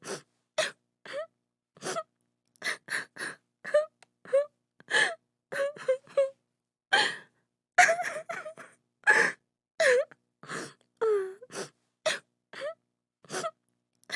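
A woman sobbing and crying in short, broken gasps and wailing breaths, some with a falling pitch, with brief silences between them.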